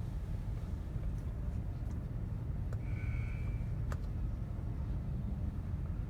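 Automatic car wash machinery running with a steady low rumble. A few faint clicks sound through it, and a short high squeak comes about three seconds in.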